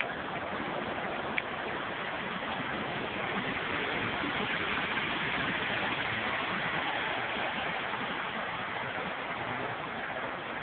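Heavy rain falling, a steady hiss that swells a little in the middle, with one faint click about a second and a half in.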